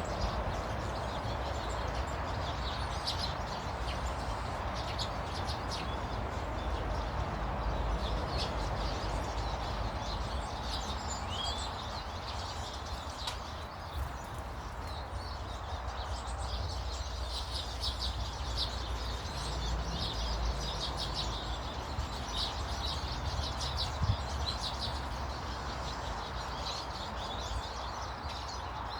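Small garden birds chirping and twittering, many short high calls coming thick and fast throughout, over a steady low background rumble.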